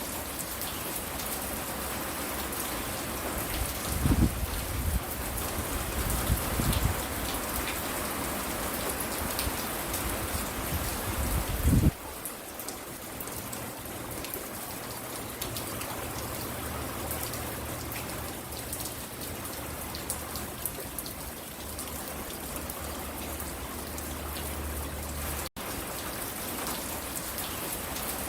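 Steady rain falling and pattering on surfaces. Several low rumbles come through in the first half, the loudest sounds here, and stop abruptly about twelve seconds in. There is a brief dropout near the end.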